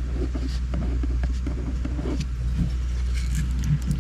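Pen scratching in short strokes on an index card, over a steady low rumble.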